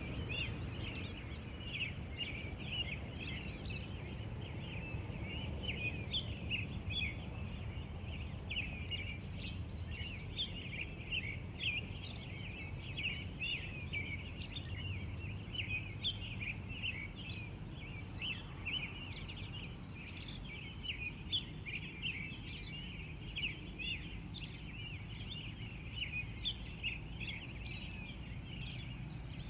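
Morning chorus of wild birds: many short chirps crowding one over another without a break, with a few higher, thinner calls now and then. Under it runs a steady high insect trill and a low rumble.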